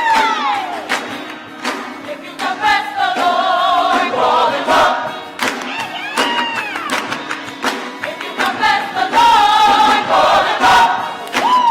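Gospel singing by several voices with a crowd joining in, voices sliding in pitch, and many sharp hits throughout.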